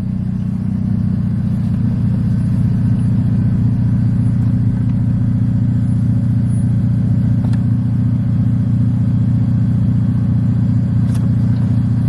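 Car engine idling, heard from inside the cabin: a steady low hum that holds evenly throughout.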